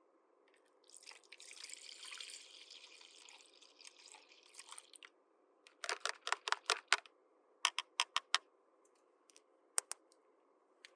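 Small plastic toy pieces being handled: a crinkly rustle for about four seconds, then quick runs of sharp clicks, first about seven, then four, then a couple of single clicks near the end.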